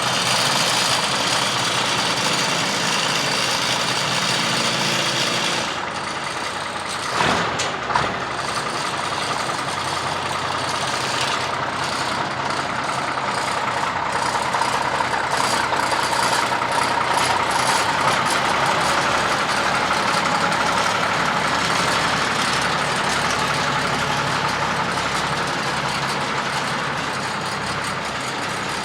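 Mack B-model truck's diesel engine running steadily, just back running after losing its fuel prime. Two sharp knocks come about seven and eight seconds in.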